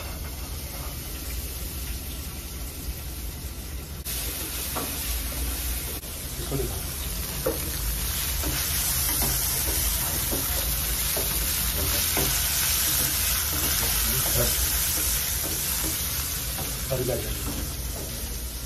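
Chopped almonds, coconut and raisins sizzling as they fry in hot oil in a frying pan, with a spatula stirring and knocking against the pan now and then. The sizzle grows louder about four seconds in.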